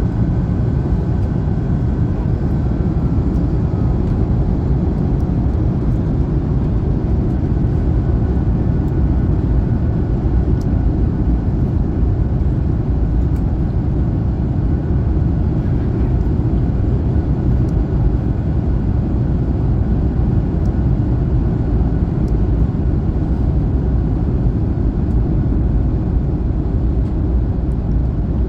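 Steady in-flight cabin noise inside an Airbus A321neo airliner: engine and airflow noise, strongest in the low range, with a faint thin whine during the first few seconds.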